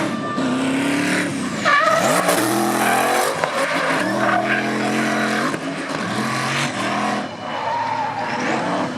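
Mercedes-AMG M156 V8 in a BMW E46 revving hard with tyres squealing as the car drifts. The engine pitch climbs about two to three seconds in and then holds high.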